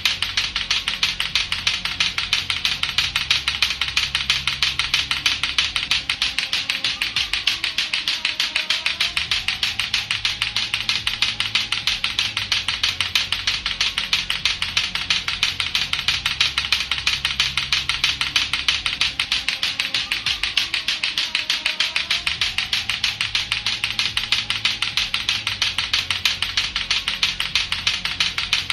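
Latto-latto clacker balls (two hard plastic balls on a string) knocking together in a rapid, steady clacking, over a looping music track.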